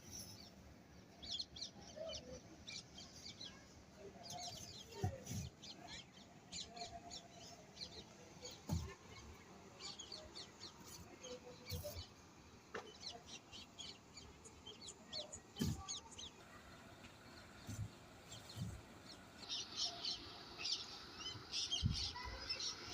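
Birds chirping in quick, high, scattered calls, thickest near the end, with some clucking and a few soft low thumps.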